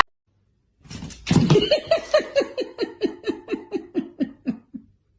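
A person laughing in a rapid run of about a dozen short pulses, roughly three to four a second, trailing off and fading out.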